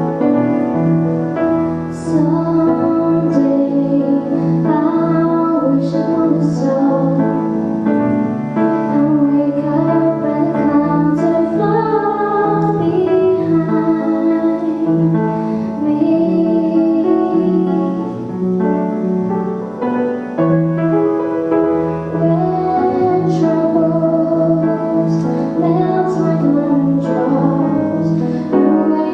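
A woman singing a song with piano accompaniment, over a steady pulsing bass note.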